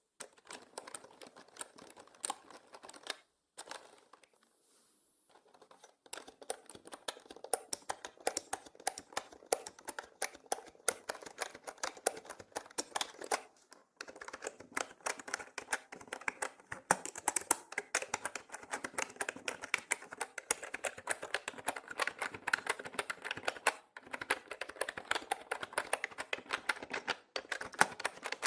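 Fast typing on a mechanical keyboard: a dense run of key clicks, broken by a pause of about two seconds near the start, then continuing steadily.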